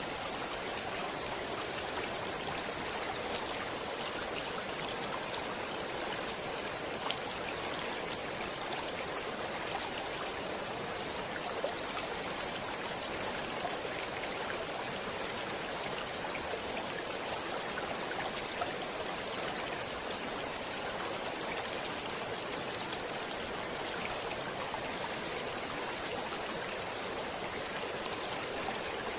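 Stream water flowing steadily, an even rushing hiss with a few faint splashes here and there.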